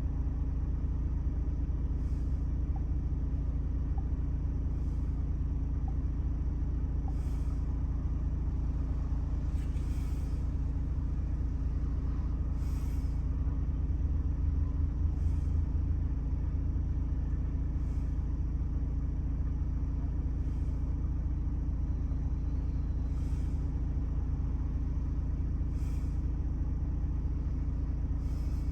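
2018 Ford Transit's 2.0-litre Duratorq diesel engine running steadily. A faint, short, high-pitched click comes about every two and a half seconds.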